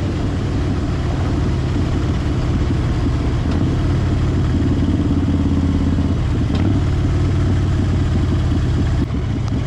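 Harley-Davidson Fat Bob's V-twin engine running while riding, with the engine note shifting in pitch twice, about a third and about two-thirds of the way through.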